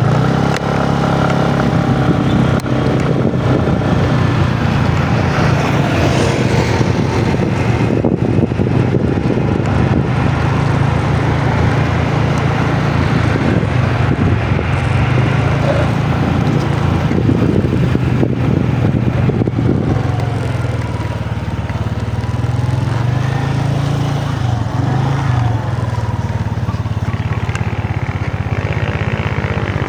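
Motorcycle engine running under way, its pitch rising and falling with throttle and speed, with wind and road noise on the microphone.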